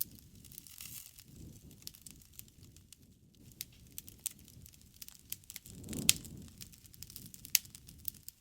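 Wood bonfire crackling, with irregular sharp pops over a soft low rumble of burning. About six seconds in, the fire swells briefly with one louder pop.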